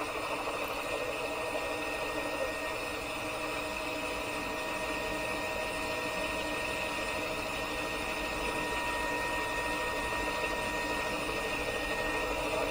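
Steady drone of a helicopter's engine, with a constant high whine running through it.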